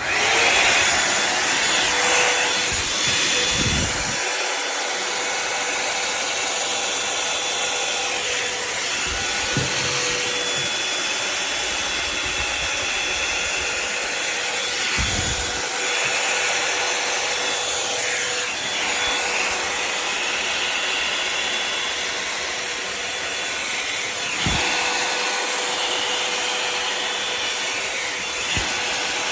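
Dimecano Plus 2.0 hot-air dryer brush running steadily on its high setting, a constant fan and air rush that switches on at the start, with a few brief knocks.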